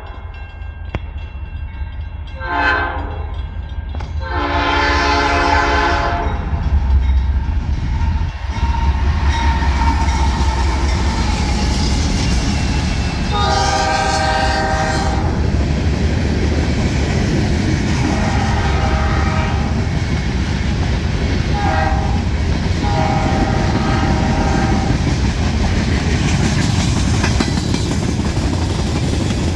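Norfolk Southern freight locomotive's air horn, GE AC44C6M NS 4370 leading. It gives two blasts, then long, long, short, long: the grade-crossing signal. Under the horn, the locomotives and rolling freight cars rumble steadily as the train passes.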